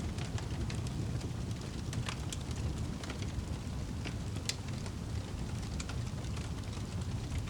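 Wood fire in a fireplace crackling, with a steady low rumble of burning under irregular sharp pops and snaps; one pop stands out about four and a half seconds in.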